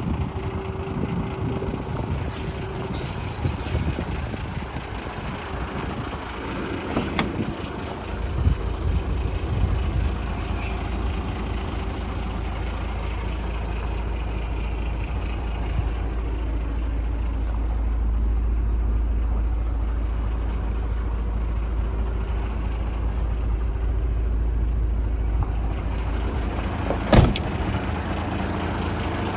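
Mitsubishi Fighter dump truck's 6D15 six-cylinder diesel engine running with a steady low rumble that becomes stronger about a third of the way in. A sharp click sounds near the end.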